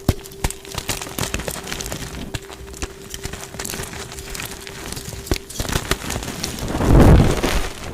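Blocks of dyed gym chalk being crumbled and crushed: scattered small crackles and crisp clicks, then near the end a louder, deeper crunch lasting about a second.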